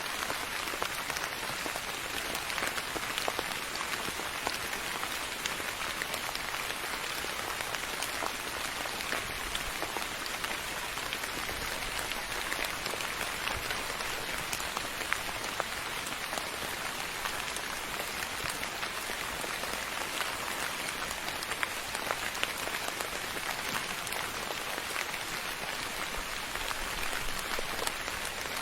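Steady rain falling on a surface, a dense even patter with many small individual drop ticks throughout.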